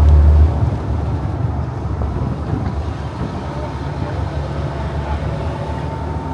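A moving vehicle rumbling along, heard from on board, with wind buffeting the microphone; a heavy low rumble drops away about half a second in.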